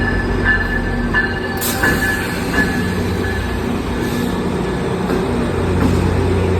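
Train running past, a steady rumble with a thin high tone held above it and a few sharp knocks in the first few seconds.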